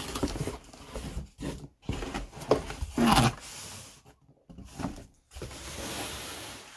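Irregular rustling and knocking of cardboard and plastic packaging being handled during unboxing, with a louder bump about three seconds in and a longer rustling scrape near the end.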